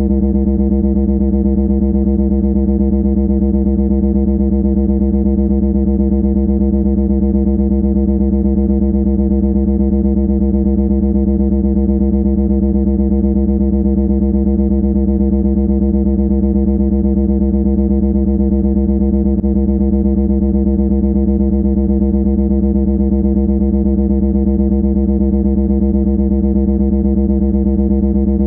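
A loud, harsh buzzing drone held at one unchanging pitch, without a break.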